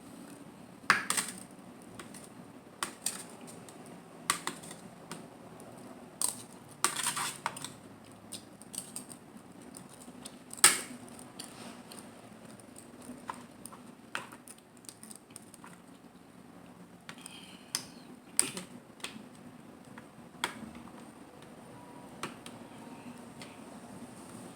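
Scattered sharp clicks and clinks of mussel and clam shells and eating utensils against a plate, with quiet gaps between them; the loudest click comes about ten seconds in.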